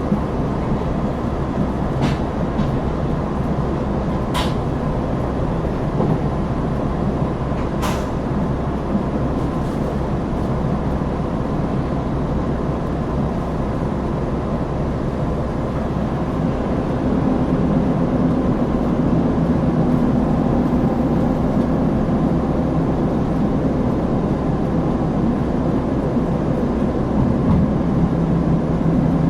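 Diesel engine of a KiHa 261 series limited express railcar running under power, heard from inside the passenger car along with steady running noise. A little past halfway the engine note grows louder and deeper. A few sharp clicks come in the first eight seconds.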